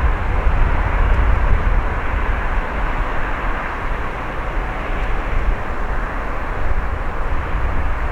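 Embraer ERJ-190 jet's twin turbofan engines, a steady, continuous rumble with a noisy rush.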